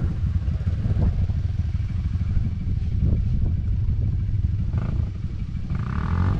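ATV engine running at a steady pace, a continuous low rumble with scattered clicks and rattles.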